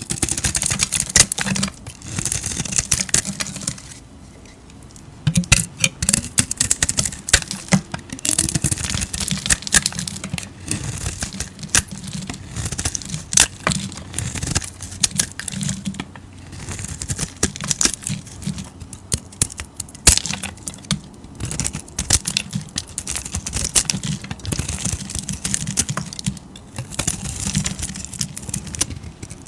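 Dry bar soap being cut with a knife: a run of crisp, crackling cuts with sharp snaps, with a short pause about four seconds in.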